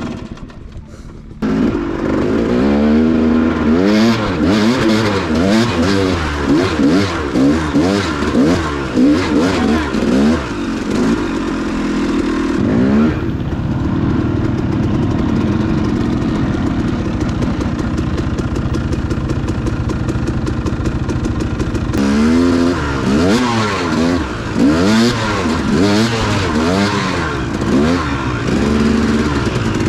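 Dirt bike engine revving up and down in quick, repeated blips, steadier for several seconds in the middle, then blipping again, as the bike is worked over rough ground.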